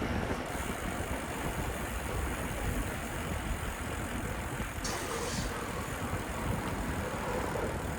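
Street traffic, with car engines running and idling, under a steady low rumble of wind on the microphone. A short hiss comes about five seconds in.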